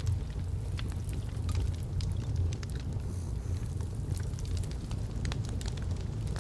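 Wood log fire burning in a fireplace: scattered sharp crackles and snaps over a steady low rumble of the flames.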